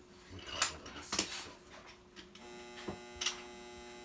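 A steady electric hum, joined about two and a half seconds in by the buzz of a small electric motor, with four sharp clicks and clacks of wooden toy trains on the track.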